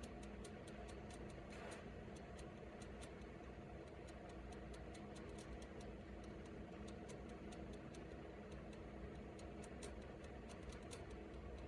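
Faint, irregular clicks and ticks, several a second, over a steady low hum.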